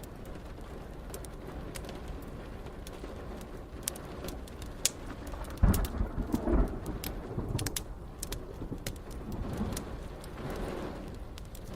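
Wood fire crackling with sharp scattered pops over a steady bed of rain, with a low roll of thunder breaking in about halfway through and rumbling off over a few seconds, then a weaker second rumble near the end.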